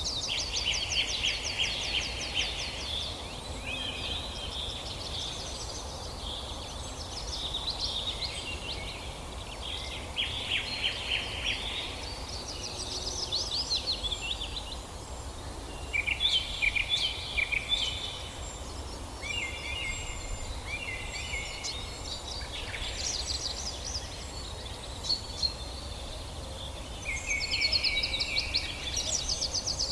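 Songbirds singing in a forest: a short phrase of rapid trilled notes every few seconds, with a thin high call repeating in the background over a low steady rumble.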